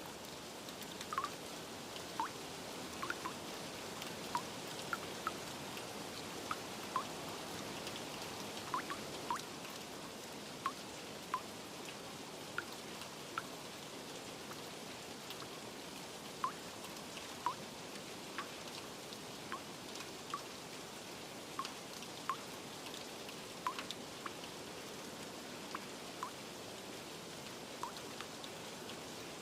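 Steady rain with irregular water drops plinking, roughly one or two a second, over a soft continuous hiss.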